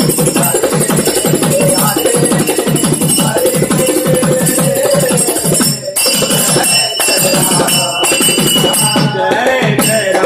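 Bhajan group's devotional music between sung lines: a hand drum keeps up a fast run of strokes, about four a second, under small hand cymbals ringing steadily.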